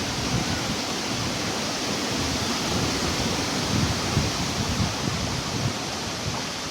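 Strong Kalboishakhi storm wind with rain, a steady hiss throughout, and irregular gusts buffeting the microphone.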